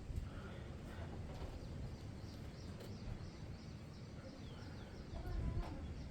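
Outdoor background: birds chirping in a run of short repeated high calls over a steady low rumbling noise, with a few faint clicks.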